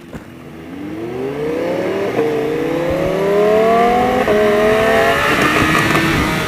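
High-performance vehicle engine accelerating hard and growing louder, its pitch climbing steadily with two brief shift breaks, then holding at a steady pitch near the end.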